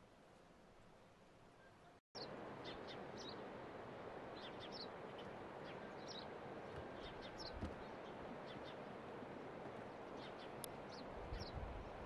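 Small birds chirping, many short high calls scattered irregularly, over a steady rushing background noise. The sound cuts in about two seconds in, after a brief dropout, replacing a fainter hiss.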